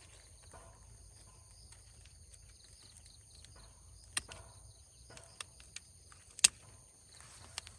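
Steady high-pitched chorus of insects, crickets or cicadas, with a few sharp clicks or snaps scattered through it, the loudest about six and a half seconds in.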